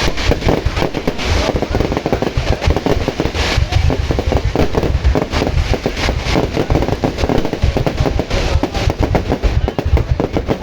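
Fireworks display going off without a break: a dense run of bangs and booms, with brighter crackling bursts every few seconds.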